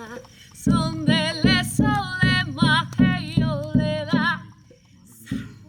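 A woman singing a shamanic chant with a wavering vibrato, over a steady accompaniment beat of about two to three strokes a second. The singing fades out about four and a half seconds in.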